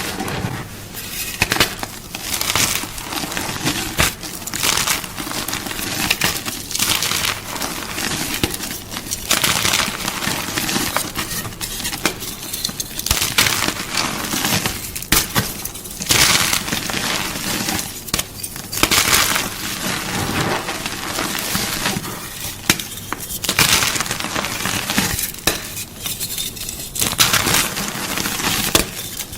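Blocks of gym chalk (magnesium carbonate) crunching and crumbling close up, in dry crackling bursts that come every second or two.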